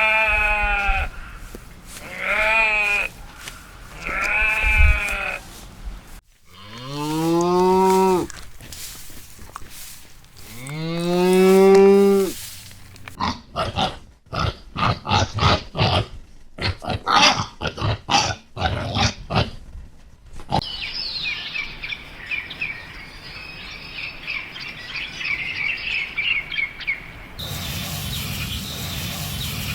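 Farm animals calling one after another: three short bleats, then two long calls that rise in pitch, then a quick run of short harsh calls. A high chattering follows, and a steady hiss sets in near the end.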